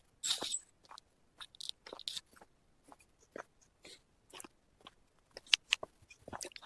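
Footsteps crunching irregularly on a rough forest trail, a string of short scattered crackles.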